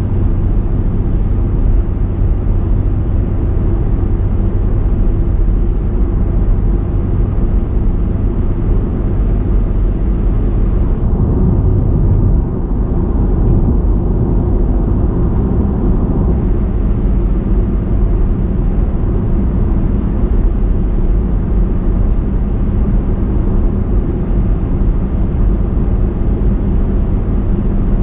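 Steady engine and tyre-on-road noise of a car driving, a deep even rumble. About eleven seconds in, the higher hiss thins for a couple of seconds.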